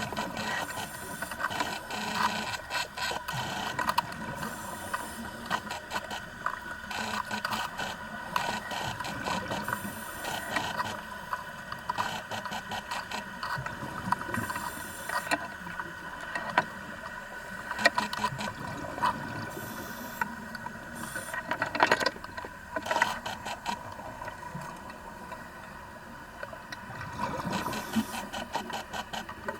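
Vacuum pump running with a steady whine, with frequent irregular clicks and rattles over it.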